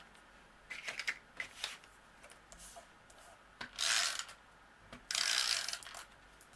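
Snail tape-runner adhesive dispenser rolled in short strokes across the back of paper strips, a ratcheting, rasping sound as the adhesive is laid down. A few small clicks about a second in, then two short strokes near 4 and 5 seconds.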